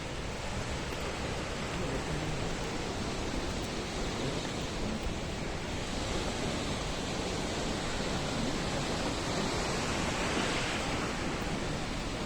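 Steady rushing of the Krimml Waterfalls, a large mountain waterfall, as a continuous even wash of falling water with no breaks.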